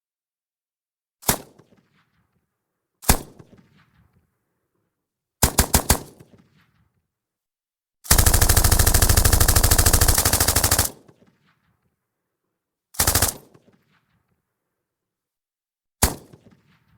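Russian PKM 7.62 mm general-purpose machine gun firing: a single shot about a second in, another, a short burst of about four rounds, a long burst of about three seconds, a short burst of two or three rounds, and a last single shot near the end. Each shot or burst trails off in a short echo.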